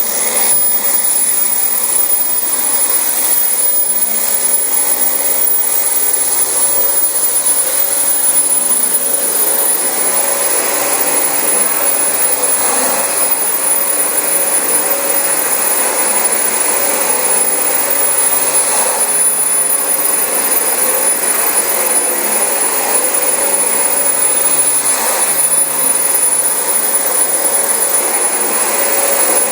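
Dyson DC25 bagless upright vacuum cleaner running steadily on carpet, its motor giving a constant whine over the noise of the suction.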